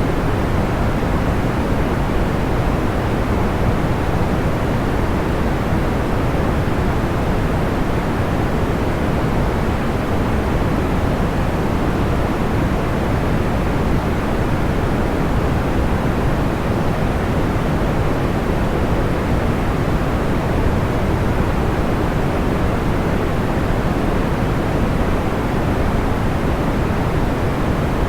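Steady generated sleep noise: a soft, even rush weighted toward the low end, with no separate crackles or pops.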